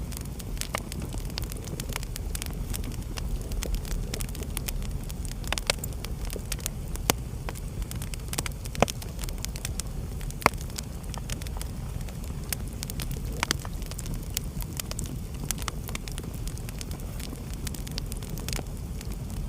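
Wood fire burning in a fireplace: a steady low rumble of the flames with scattered sharp crackles and pops from the burning logs, a few louder pops standing out.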